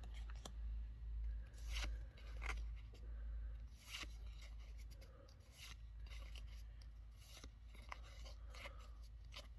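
Faint crinkling and scraping of a foil Pokémon booster pack being opened and its cards handled, in scattered short rustles.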